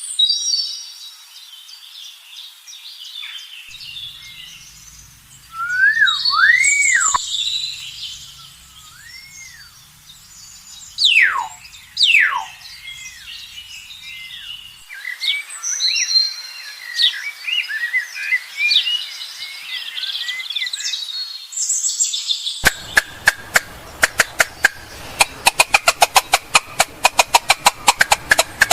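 Birds chirping and whistling, with several looping and sharply falling whistled calls about eleven to twelve seconds in. About twenty-two seconds in, a fast run of sharp clicks begins and carries on to the end, under continued chirping.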